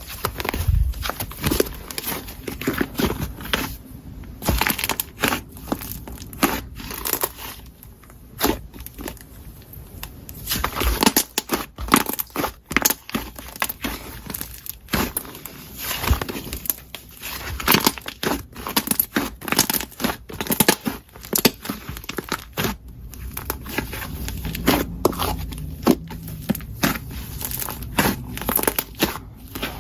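Slime being squeezed, poked and stretched by hand, making a dense, irregular run of sharp clicks and pops that keeps going without a break.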